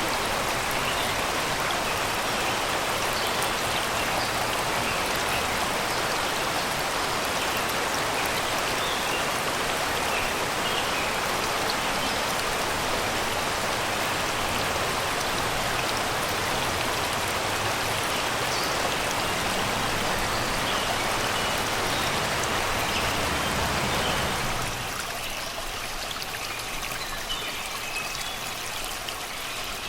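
Water of a shallow river flowing over and around rocks, a steady rushing babble, with small birds chirping faintly over it. About five seconds before the end the water sound becomes quieter and lighter.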